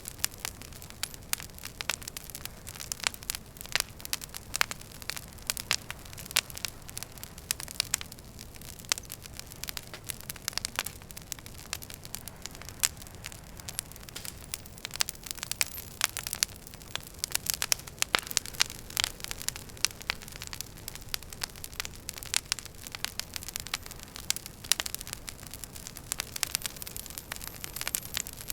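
Wood fire burning in a fireplace, crackling steadily. Many sharp, irregular pops and snaps sound over a soft low rumble of the flames.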